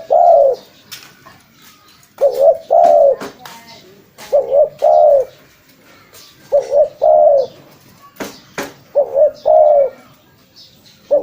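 Spotted dove (tekukur) cooing over and over, each phrase a quick double note followed by a longer drawn-out coo, repeated about every two seconds. Two sharp clicks come just past the middle.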